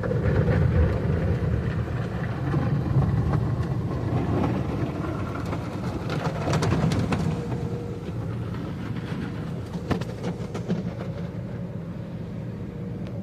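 Automatic tunnel car wash machinery heard from inside the car: a steady rumble and rush of spray, with a cluster of knocks and slaps against the car around the middle and a few more near the end.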